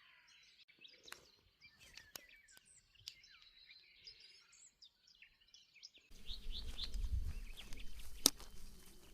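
Songbirds chirping and twittering in quick high phrases, with a few sharp clicks. About six seconds in, a low rumble and hiss come up suddenly under the birdsong, and a louder click follows shortly after.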